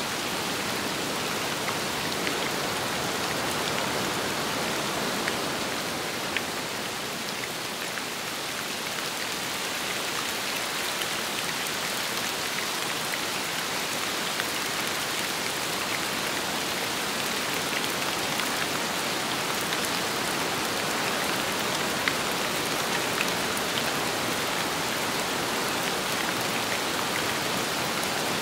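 Steady rain falling on a surface, with scattered individual drops ticking and a wide, even hiss; the level dips slightly for a few seconds early on.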